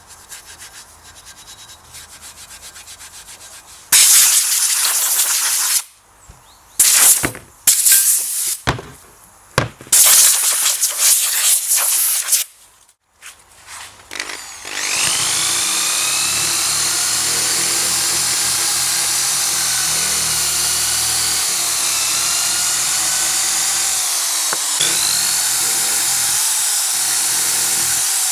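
Workshop tool noise: several loud, harsh bursts of abrasive hissing that start and stop, then a small high-speed power tool spins up with a rising whine and runs steadily.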